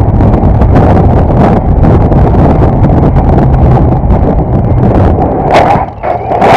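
Loud, overloaded rush of wind and vehicle noise on a camera microphone, with a heavy low rumble and sharp knocks through it. It cuts in suddenly just before and eases off near the end.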